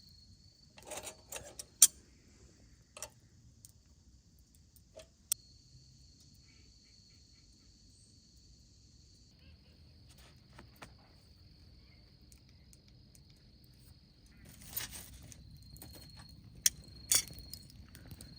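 Insects, likely crickets, trilling in one steady high note, with scattered sharp clicks and clinks, most of them about a second in and again near the end.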